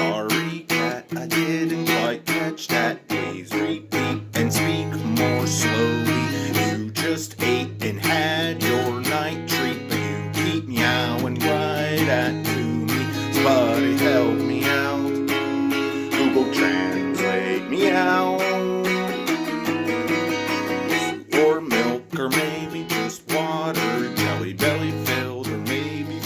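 Guitar music: plucked and strummed acoustic guitar over a steady bass line, with many quick note attacks.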